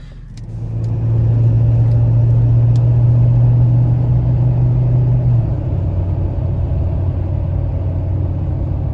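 Lifted pickup truck's engine and exhaust pulling away under load, building over the first second into a loud steady drone that steps down lower and quieter about five and a half seconds in, as the throttle eases.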